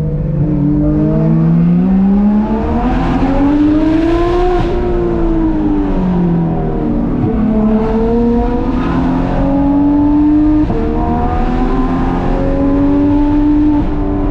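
Porsche 991.2 GT3 RS's flat-six engine, fitted with Dundon street headers and 'Crack Pipe' exhaust, being driven hard. It revs up and eases off several times, the pitch climbing and falling again and again.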